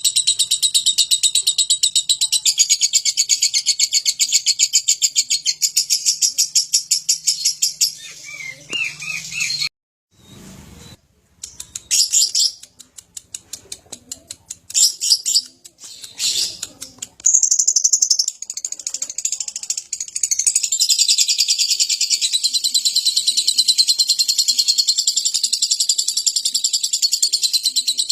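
Lovebird singing a long, very fast chattering trill (the ngekek song). The trill breaks off about eight seconds in into short scattered bursts, then runs on unbroken again from a little past halfway.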